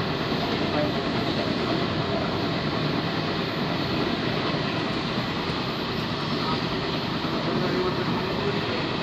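Passenger train running along the line, a steady rumble of wheels and carriage noise heard from on board.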